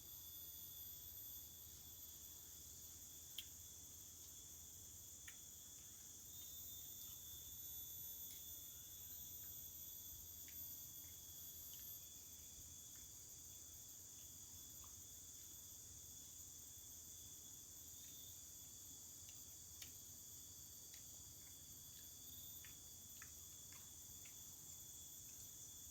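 Faint insect chorus of crickets, a steady high trilling at several pitches at once, with a few soft ticks scattered through it.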